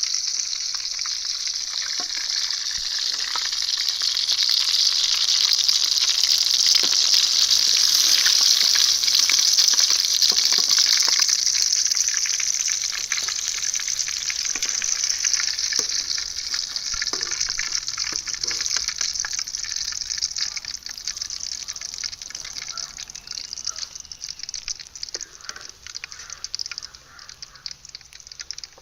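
Food sizzling in hot oil in a cooking pan, a dense hiss dotted with crackles that swells over the first few seconds and then slowly dies down.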